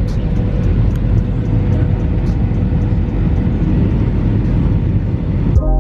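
Steady low vehicle rumble with a faint constant hum, cut off abruptly near the end.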